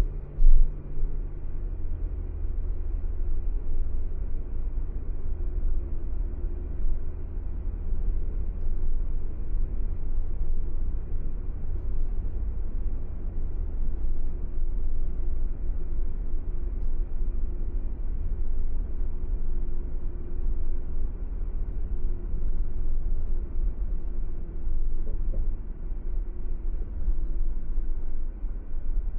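Car driving along at steady speed: a continuous low road-and-engine rumble with a faint steady hum over it. A short thump sounds about half a second in.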